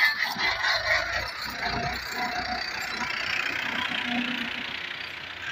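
Fiat 640 tractor's diesel engine running steadily under load while pulling a plough.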